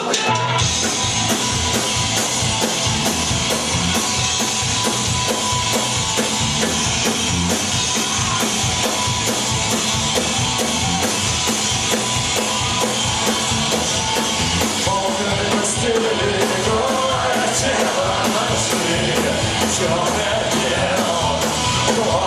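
Punk rock band playing live and loud: electric guitars, bass and a drum kit keeping a fast, driving beat.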